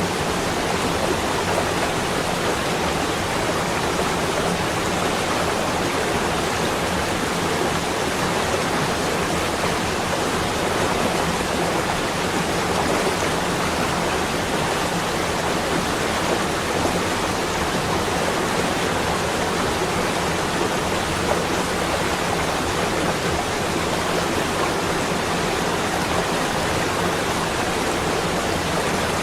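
Steady, even rushing noise with no distinct events: a continuous ambient track of the kind used in winter relaxation recordings.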